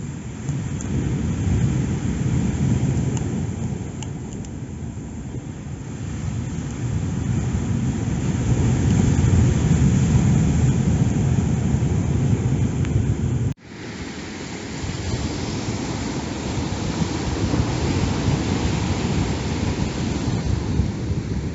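Storm wind buffeting the microphone with a deep rumble that swells and eases. After a sudden break about two-thirds of the way in, heavy sea waves and wind give a broader, hissing rush.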